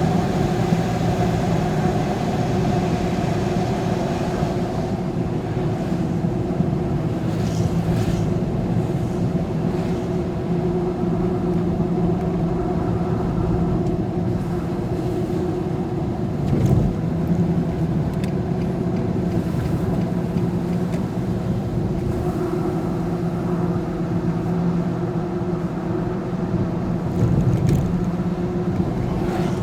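Steady drone of a road vehicle's engine and tyre noise while driving, with a few faint knocks now and then.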